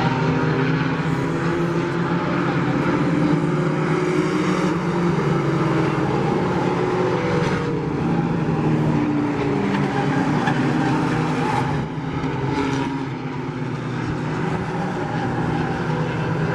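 Several racing pickup trucks running laps together, their engines droning at once with the pitch rising and falling as they go through the corners.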